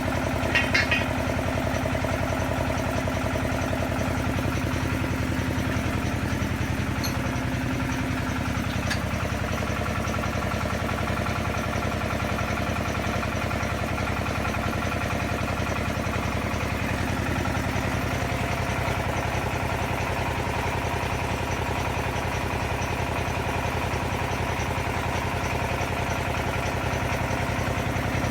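XY-1B well-drilling rig's engine running steadily at an even speed, with a short high-pitched rattle about a second in.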